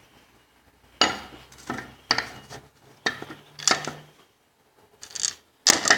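Metal tools or parts clinking and knocking together in several sharp strikes, some with a brief metallic ring.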